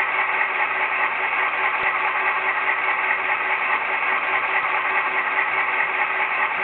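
SoundTraxx Tsunami sound decoder playing a simulated EMD 567 diesel prime mover, running steadily through the model locomotive's speaker.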